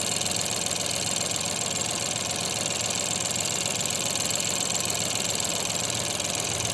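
Ford Fiesta 1.0 EcoBoost three-cylinder petrol engine idling steadily, with a constant hiss over the engine note.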